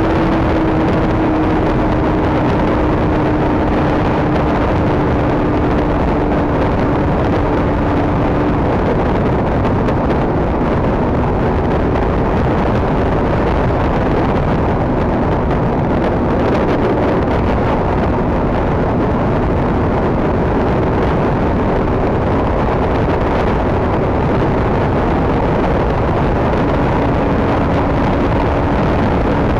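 KTM RC 390's single-cylinder engine running at steady highway speed under heavy wind rush on the microphone, its engine note holding nearly level and shifting pitch about nine seconds in.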